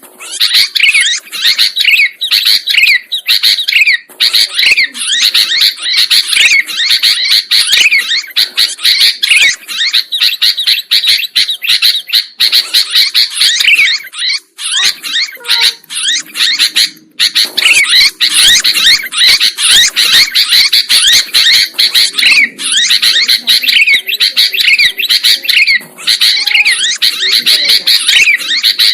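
Sooty-headed bulbul (kutilang) singing busily: rapid, dense chirping and short whistled notes, with only brief pauses.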